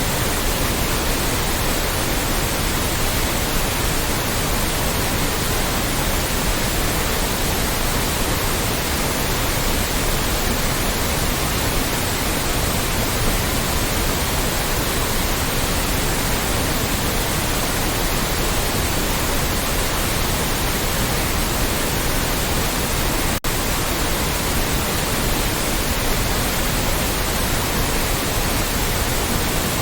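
Loud, steady white noise: an even hiss spread across all pitches, with no tones or rhythm. It drops out for a split second about 23 seconds in.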